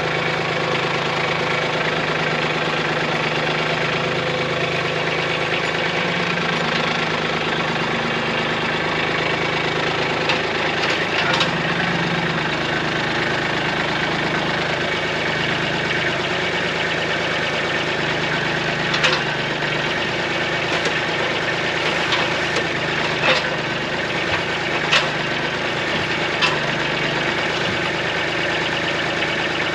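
Small Kubota tractor's diesel engine running steadily, with a handful of sharp knocks in the second half as the chained pole is swung and set.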